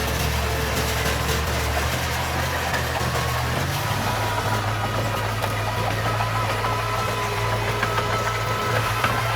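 Heavy-equipment diesel engine running steadily, its low note shifting about a third of the way in.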